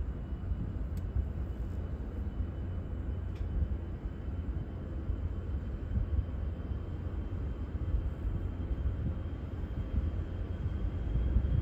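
Steady low rumble of distant jet airliner engines, even and unchanging.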